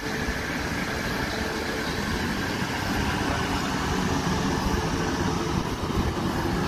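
South Western Railway Class 450 Desiro electric multiple unit running slowly along the platform, a steady low rumble of wheels and running gear with a faint electric hum that stops about five seconds in.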